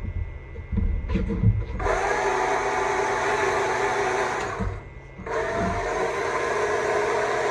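Stihl MSA 200 C battery chainsaw's electric motor running while carving into a wooden stump. It starts after a few low thumps about two seconds in, stops briefly around five seconds in, then runs again.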